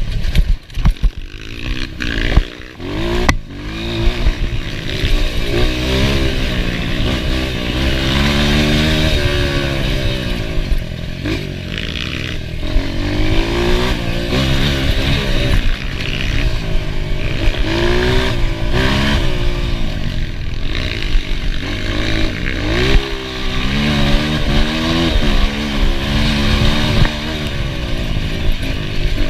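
Enduro motorcycle engine revving and backing off over and over, its pitch climbing and dropping with each burst of throttle. A few sharp knocks and clatter come in the first few seconds.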